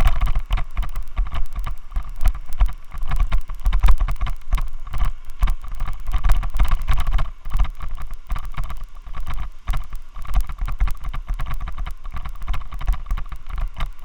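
Vibration noise picked up by a Xiaomi Yi action camera on a loose helmet mount. It is a heavy low rumble packed with rapid, irregular rattling knocks, and it is caused by the helmet mount.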